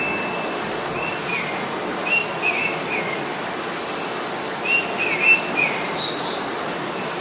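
Birdsong ambience: birds chirping in short repeated phrases, a group every second or so, over a steady hiss.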